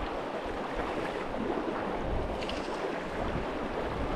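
A river's water running steadily, with wind noise on the microphone.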